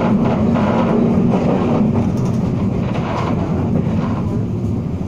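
Local passenger train running at speed, heard from aboard the coach: a steady low drone with the rumble of wheels on the track.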